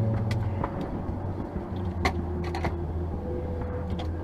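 Vehicle idling with a steady low hum, heard from inside the cabin, with a faint steady tone above it and a handful of short, irregular clicks and taps.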